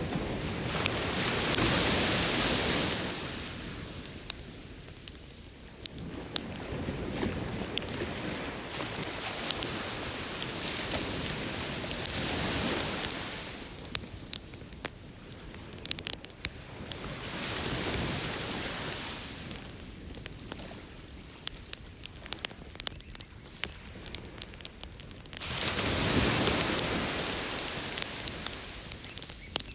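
Ocean surf washing ashore, swelling and fading about four times, under the steady sharp crackle and popping of a beach campfire.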